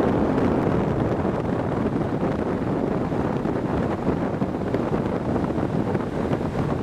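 A 3-ton 1988 Trane XL1200 heat pump's outdoor unit running steadily in cooling mode: the condenser fan blowing air and the reciprocating compressor running, which the owner reckons sounds pretty good for its age.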